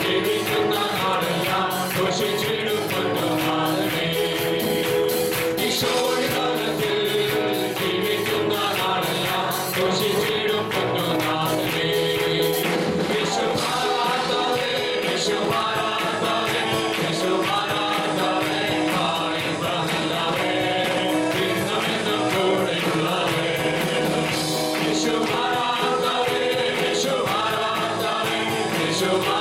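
Live praise-and-worship music: a band with a group of singers performing a gospel song over a steady percussion beat.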